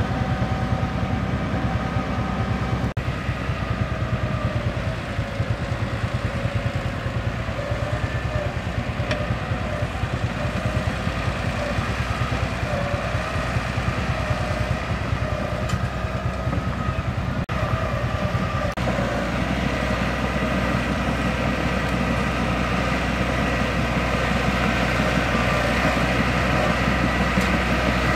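Mitsubishi bulldozer's diesel engine running steadily under work, with a continuous metallic rattle from the machine. About two-thirds of the way through, the sound settles into a steadier, deeper hum.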